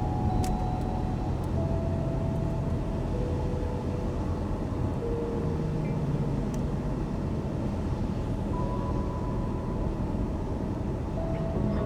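A car driving on a rain-wet road: a steady low rumble and hiss of tyres and road noise.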